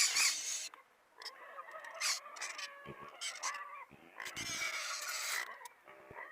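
Pigs squealing in noisy bursts, a longer one at the start and another about four seconds in, with shorter cries between.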